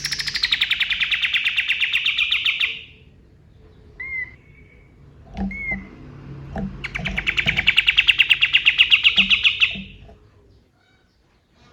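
A kapas tembak songbird singing: two long, fast rattling trills of rapidly repeated sharp notes, each lasting about three seconds, separated by a few short single notes, the second trill starting about seven seconds in.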